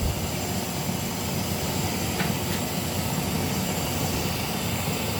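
Water from a faucet hose pouring steadily into the wash tub of a twin-tub washing machine as it fills.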